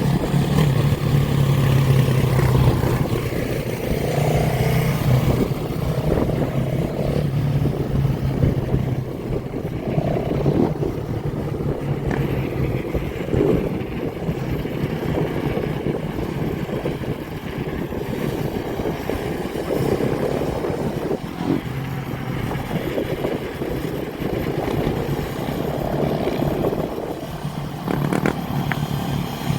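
Motorcycle and dirt bike engines running and revving, with a steady low engine drone through most of the stretch that fades for a while in the middle.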